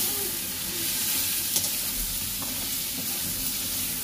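Onions and spices sizzling in hot oil in a kadhai, steady throughout, while a spatula stirs them, scraping and tapping against the pan a few times.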